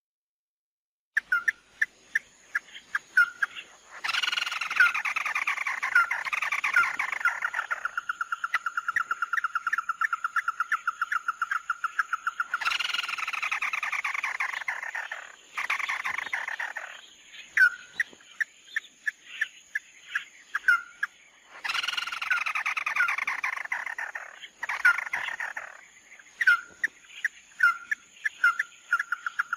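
Recorded calls of the bird sold to Vietnamese bird-trappers as "mắt đỏ", used as a lure: starting about a second in, a string of short sharp calls is repeated again and again, broken by stretches of denser overlapping calling and a long fast trill.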